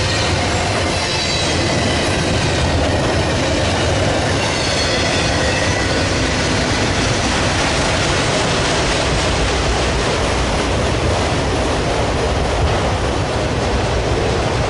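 Freight train rolling past at close range, a loud, steady rumble and rattle of steel wheels on rail, with a faint high-pitched wheel squeal in the first few seconds that fades out.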